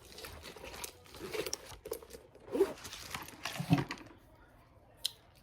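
Handling noise: rustling, crinkling and light clicks of small objects being moved about, dying down about four seconds in, with one more click near the end.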